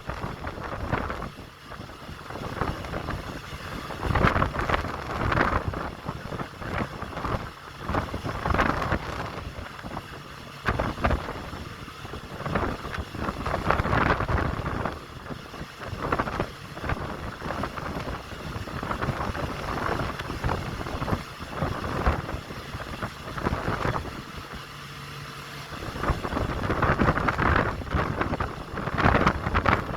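Strong wind gusting and buffeting the microphone in irregular surges, with a faint low hum underneath in the last few seconds.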